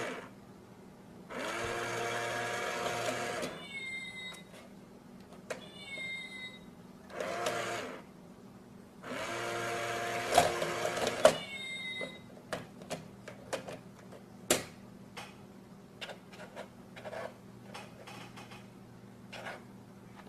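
Small electric motor whirring in bursts of one to three seconds, with short falling squeaks between them, then a scatter of light clicks and taps.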